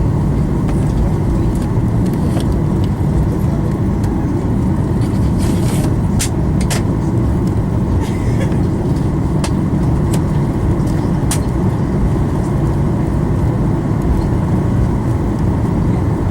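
Steady low rumble of an airliner cabin from the engines and air system, with a few light clicks scattered through it.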